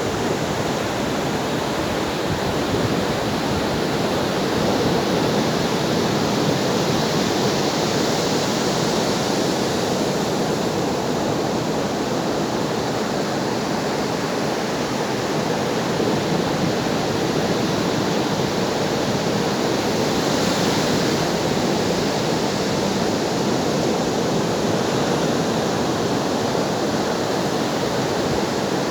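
Ocean waves breaking and washing on a shore: a continuous rush of surf, swelling into a brighter hiss twice, about eight and twenty seconds in.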